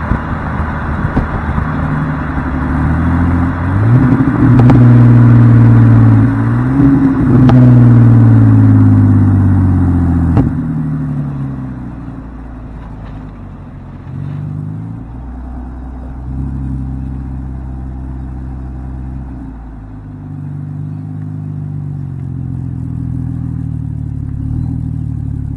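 BMW 328i inline-six with the muffler deleted, revving hard twice in rising pulls, loud until it lets off about ten seconds in. After that the engine runs much more quietly, its pitch stepping between steady stretches.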